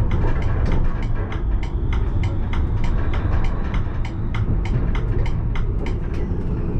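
Alstom Citadis tram running along its rails, heard from the driver's cab: a steady low rumble with many sharp clicks and ticks.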